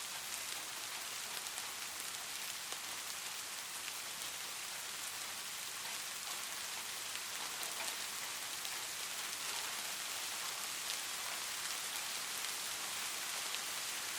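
Light rain falling steadily: an even hiss with faint scattered drop ticks.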